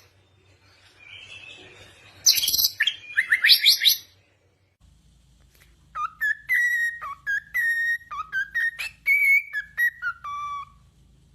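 Birds chirping and calling, ending in a run of quick rising notes. After a short break comes a series of clear whistled notes that slide up and down in pitch, lasting about five seconds.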